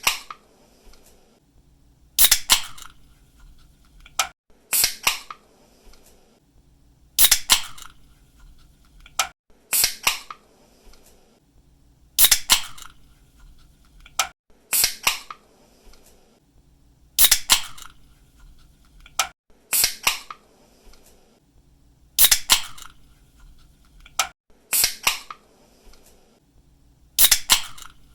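Pull-tab drink can being opened again and again, about once every two and a half seconds: each time a sharp double crack of the tab breaking the seal, followed by a short hiss of escaping gas.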